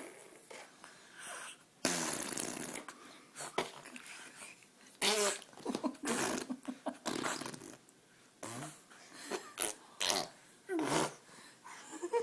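Baby blowing raspberries and spluttering with his mouth against a hand, in a string of short wet bursts with bits of voice mixed in.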